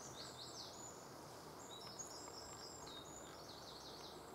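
Faint birdsong: high chirps and quick down-sweeping notes repeating throughout, over a steady low hiss.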